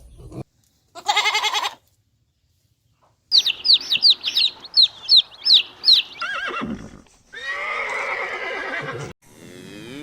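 A run of farm animal calls cut one after another: a short call about a second in, then a quick series of about eight high, falling peeps, then two longer calls and the start of another near the end.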